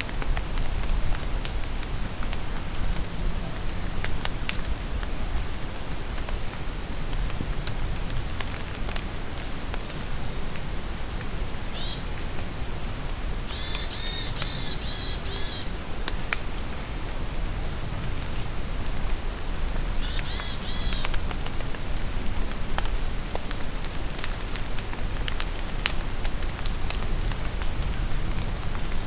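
Steady rain falling in a forest, with scattered drops ticking. A bird calls a quick run of high chirps about halfway through and again a few seconds later, with fainter calls just before.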